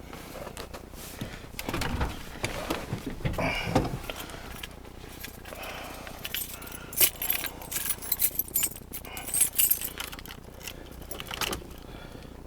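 A set of keys jangling, with scattered clicks and rustling handling noises.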